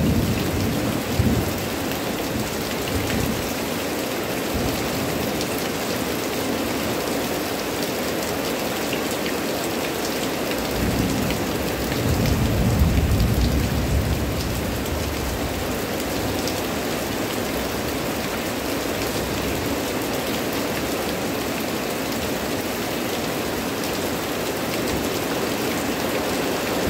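Heavy rain falling steadily on dense leafy plants, a constant hiss. A low rumble swells about eleven seconds in and fades a few seconds later.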